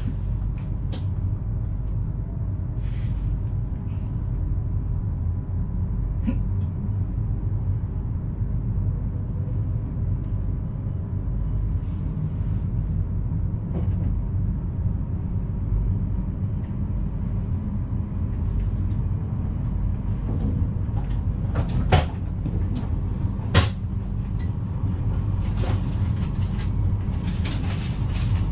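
Steady low rumble inside the driver's cab of a VIRM double-deck electric train, with a faint steady hum and a few sharp knocks and clicks, the two loudest about a second and a half apart near the end.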